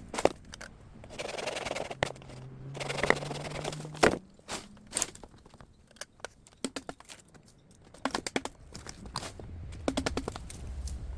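Bamboo being worked by hand: scraping and rustling, with several sharp knocks and cracks. A quick run of small clicks comes near the end.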